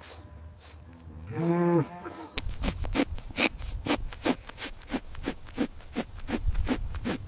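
Cow mooing once, a short call about a second in, followed by a quick, irregular series of knocks or clatters, about four a second, over a low rumble.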